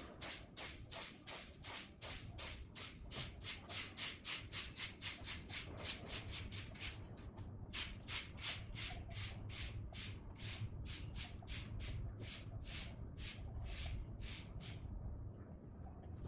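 Rapid, rhythmic scraping or rubbing strokes, about four a second. They pause briefly around seven seconds in, then resume and fade out near the end.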